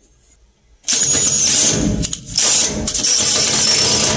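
Power drill-driver running loud in spurts, starting about a second in with a brief break partway through, as it backs out screws.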